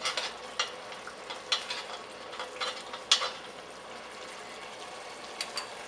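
Curry paste sizzling and frying in reduced coconut milk in a pot, with a spoon scraping and tapping now and then as it is stirred in.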